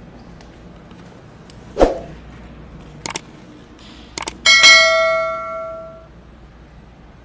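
A dull knock, then two pairs of sharp clicks, then a struck metallic ring with many overtones that fades out over about a second and a half.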